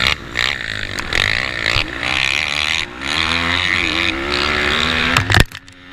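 Pitbike engine racing at high revs, its pitch rising and falling with throttle and gear changes, with short dips as the throttle closes. Near the end there is a sharp loud thump, after which the engine sound drops away.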